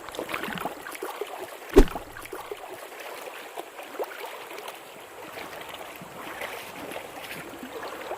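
Small mountain creek running, with scattered light clicks and rustles and one sharp thump just under two seconds in.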